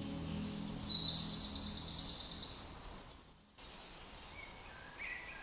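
Quiet outdoor ambience with a few short bird chirps, mostly near the end, after the last of the background music fades out in the first couple of seconds.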